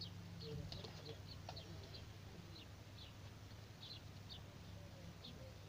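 Small birds chirping faintly in short, high chirps, a few each second, over a low steady hum.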